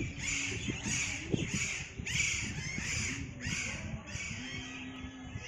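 Harsh bird calls repeated rapidly, about two a second, growing fainter after about four seconds.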